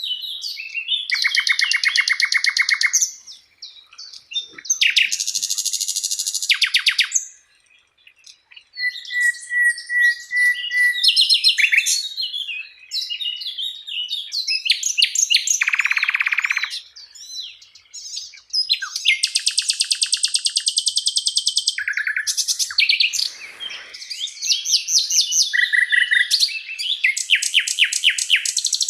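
A songbird singing a loud, varied song: phrases of very fast, high trills and chattering notes, each a second or more long, with short pauses between them and a steadier whistled run near the middle.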